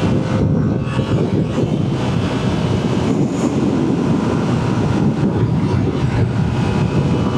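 Motorcycle riding at steady cruising speed: engine running with wind rushing over the microphone.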